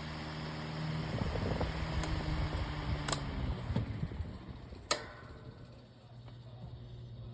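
A Better Homes and Gardens 12-inch retro table fan humming on low. Its hum drops a little in pitch and fades over the first few seconds as it slows. A few sharp clicks follow, the loudest about five seconds in.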